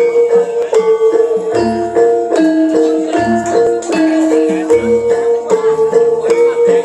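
Ebeg gamelan music: mallet-struck keyed instruments play a repeating melody over a deep low beat that comes about every second and a half, played loud through a sound system.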